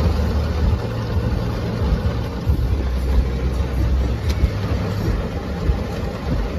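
Strong storm wind buffeting the microphone: a deep, uneven rumble that surges and eases in gusts.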